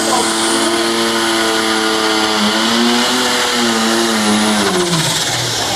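Turbocharged diesel engine of a pro stock pulling tractor running at high revs under load, with a faint turbo whine above it. The revs waver about halfway through, then drop away near the end.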